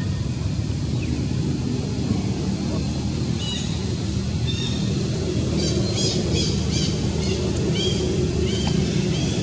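Short, high-pitched chirping calls, several in a quick cluster past the middle and a few more near the end, over a steady low rumble.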